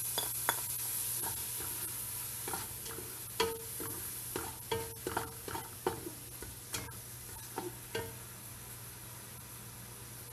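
Chopped onion and garlic sizzling in hot oil in an aluminium pot, stirred with a utensil that scrapes and clinks against the pot, some clinks ringing briefly. The sizzle fades gradually as the onion goes in.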